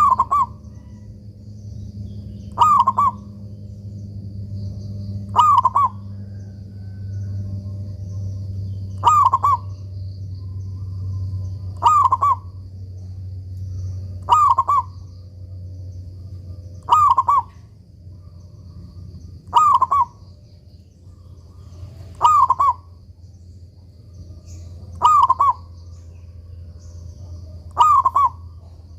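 Zebra dove (perkutut) cooing its short song phrase over and over, about once every two to three seconds, eleven times, over a steady low hum.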